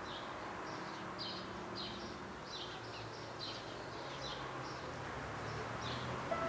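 Small birds chirping: short, high chirps repeating irregularly about twice a second over a faint, steady low hum.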